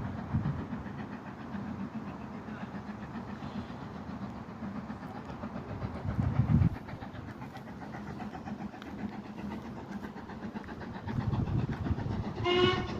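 Low, steady rumble of a railway train, swelling louder for a moment about six seconds in, with a short pitched sound near the end.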